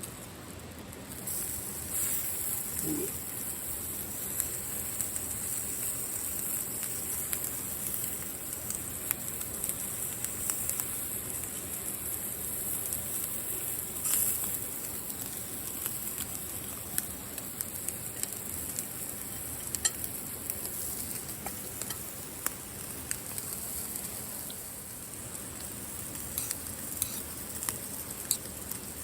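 Meat sizzling on a hot grill, a steady high hiss that starts suddenly about a second in, with scattered pops and crackles throughout.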